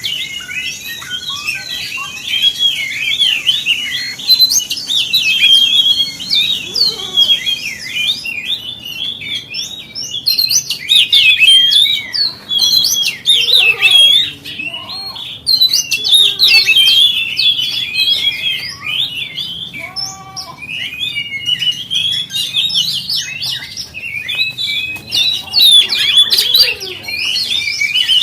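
Oriental magpie-robin (kacer) singing a loud, continuous, fast-changing song of varied whistled and chirping notes, the kind of recording played to provoke other magpie-robins into singing.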